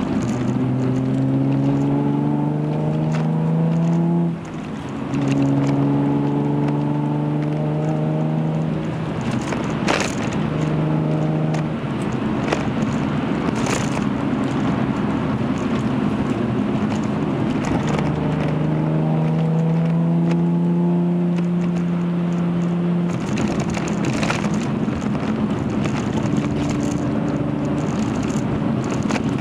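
Hyundai Genesis Coupe's 3.8-litre V6 through a Young Motors cat-back exhaust, heard from inside the cabin over steady road noise. The exhaust note climbs in pitch in several pulls under acceleration. About four seconds in it drops away briefly, then picks up again at a lower pitch.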